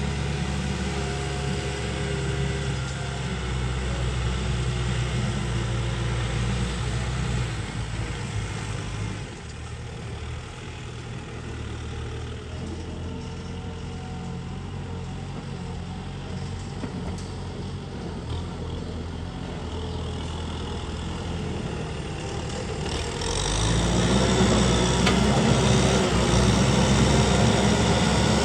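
A vehicle engine running steadily. It drops somewhat in level about nine seconds in and grows louder and fuller from about 23 seconds in.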